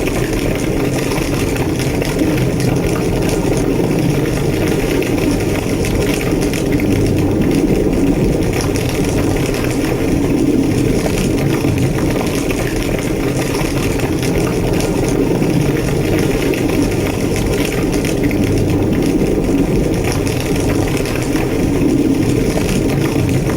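A large burning building's fire roaring steadily, a deep even rushing with faint crackles through it.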